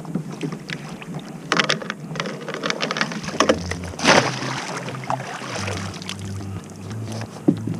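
Water splashing and dripping at a kayak as a crab trotline is worked, with louder splashes about one and a half and four seconds in.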